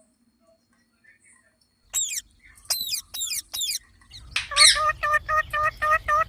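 Pet green parrot calling. After about two seconds of near silence come a few sharp, falling squawks, then a loud screech and a quick run of short, repeated notes.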